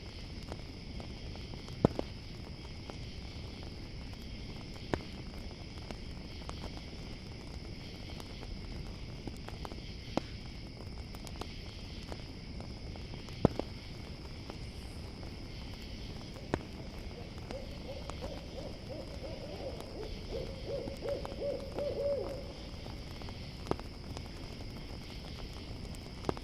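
An owl gives a long wavering, trembling hoot about two-thirds of the way in, over a steady chorus of crickets. A campfire crackles beneath, with a few sharp pops.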